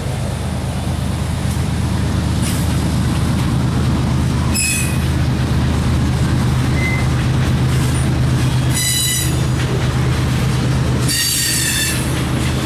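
A mixed freight train's cars (covered hoppers, a boxcar, tank cars) rolling past, with a steady low rumble of wheels on rail. High-pitched wheel squeals break in a few times: briefly just before the middle, again about two-thirds through, and most strongly near the end.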